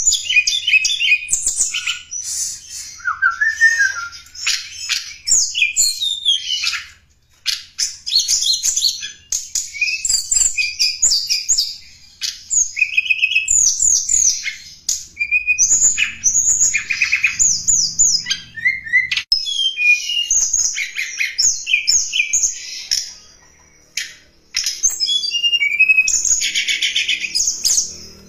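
Tledekan gunung (mountain flycatcher) singing a fast, varied, high-pitched song of chirps, trills and quick up-and-down whistles, with two short pauses. It is a recorded lure call (suara pikat), used to draw in wild tledekan or to tutor captive birds.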